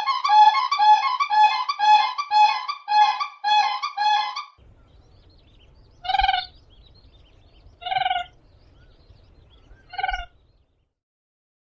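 Common crane calling: a fast run of loud trumpeting calls, about two a second, that stops about four and a half seconds in. Three single calls follow about two seconds apart over a faint low hum.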